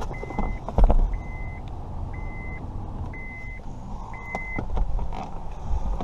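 A high electronic beep repeating about once a second, each beep about half a second long, five times and then stopping, with handling knocks and clicks in between, one loud knock about a second in.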